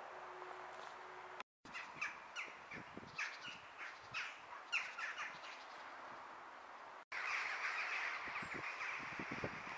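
Birds calling: short sharp calls, about two a second, then after a cut a louder, dense chatter of many birds calling at once.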